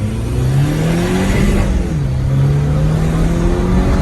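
Turbocharged MINI R57's 1.6-litre four-cylinder engine pulling hard under acceleration. Its note rises steadily, drops sharply at an upshift about two seconds in, then climbs again in the next gear.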